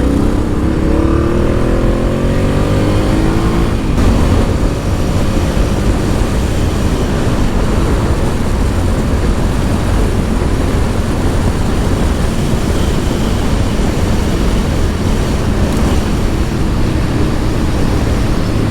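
Honda Transalp motorcycle engine revving up, rising in pitch for about four seconds, then running steadily at road speed under a heavy rush of wind noise on the microphone.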